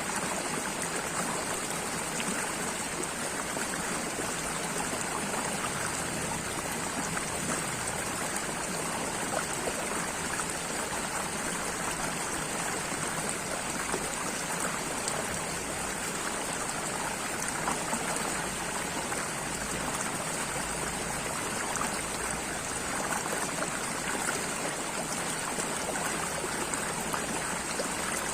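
Flowing stream water, a steady babbling and trickling rush with fine splashy detail.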